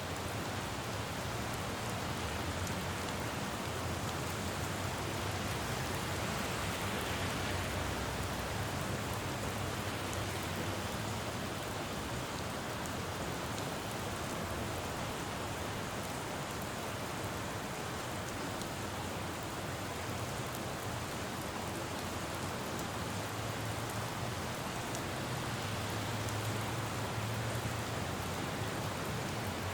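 Steady rain falling on a city road, with a low traffic rumble underneath that swells twice, about a fifth of the way in and again near the end.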